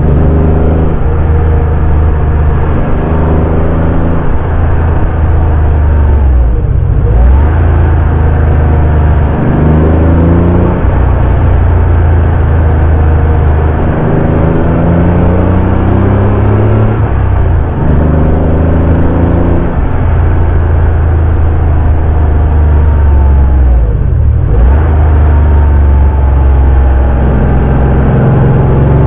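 Porsche 911 (964) air-cooled flat-six engine pulling through the gears, its pitch climbing in each gear and dropping at each shift. The engine note dips sharply twice, about a quarter of the way in and again some five seconds before the end, as the throttle is lifted.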